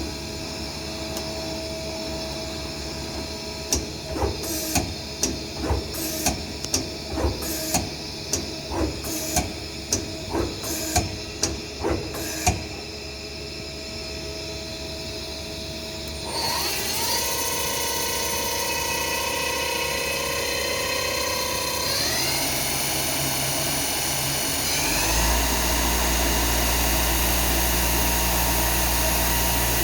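Mazak QTN200M CNC lathe running: a string of about seventeen sharp mechanical clunks over some nine seconds, then its spindle spinning up with a rising whine that steps up twice to higher speeds.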